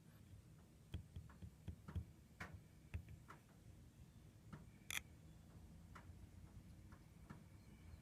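Faint, irregular small clicks and light taps, about one or two a second, with one sharper click about five seconds in, over a faint low steady hum.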